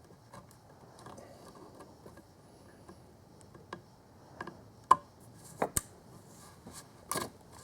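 Scattered clicks and knocks of a spring hose clamp and clamp pliers being worked onto a rubber coolant hose, over faint handling noise, with the sharpest clicks about five seconds in and near the end.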